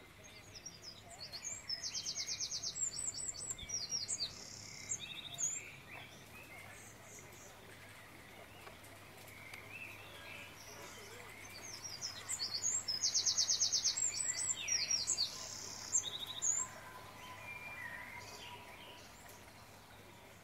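A songbird singing: two high, varied song phrases about ten seconds apart, each with a fast trill.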